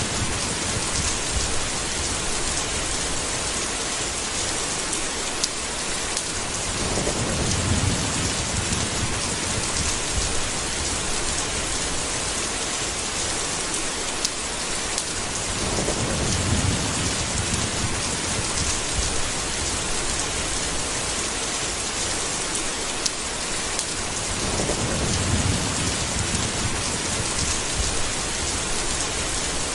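Steady heavy rain with rolling thunder: a constant hiss of rainfall, with three low rumbles of thunder that swell and fade over a couple of seconds each, roughly eight seconds apart.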